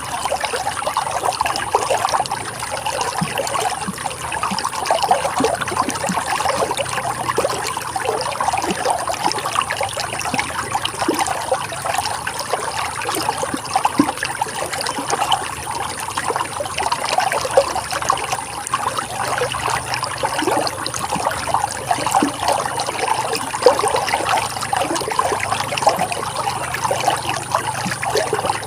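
Running water trickling and babbling in a steady, continuous flow.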